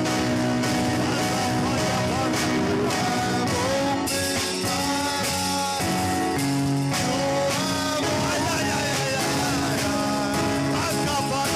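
Church worship music: held instrumental chords with voices singing over them.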